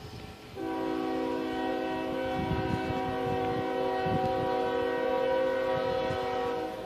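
Diesel locomotive air horn sounding one long chord-like blast of about six seconds, over the low rumble of the approaching train.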